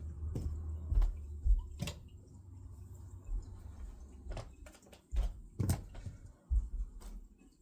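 A few scattered knocks and clicks over a low rumble, like handling noise.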